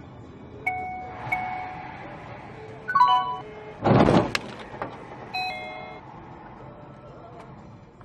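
A vehicle's warning chime dings several times, then a loud, short crash about four seconds in, followed by more chimes.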